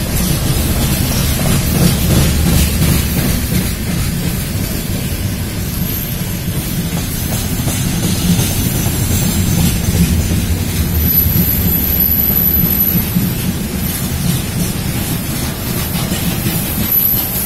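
Freight train wagons (boxcars, covered hoppers, gondolas and tank cars) rolling past close by: a steady, loud rumble of steel wheels on the rails.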